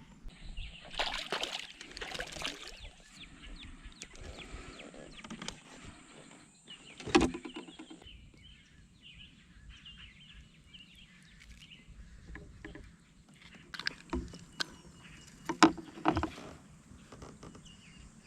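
Handling noises in a fishing kayak: irregular rustling and water sounds, with a sharp knock about seven seconds in and a few smaller knocks later on.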